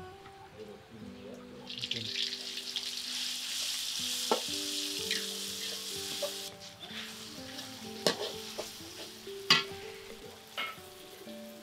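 Mashed tempe and chilli sambal sizzling in an aluminium wok as it is stir-fried with a metal spatula. The sizzle starts suddenly about two seconds in and is loudest for the next few seconds. After that the spatula knocks and scrapes against the pan a few times.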